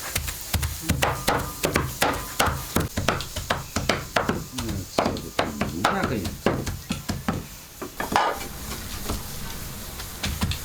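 Rapid, irregular sharp knocks, a few strikes per second, thinning out after about eight seconds.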